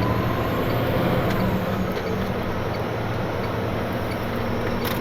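Rollback tow truck driving on the road, heard from inside the cab: steady engine and road noise with a low engine hum.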